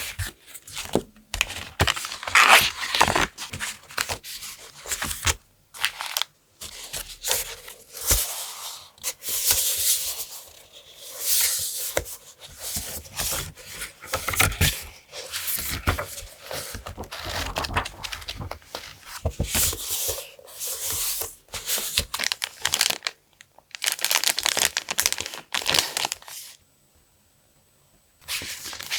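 Paper and packaging handled close to the microphone: tearing, rustling and crinkling in irregular bursts with small clicks, stopping for about a second and a half near the end.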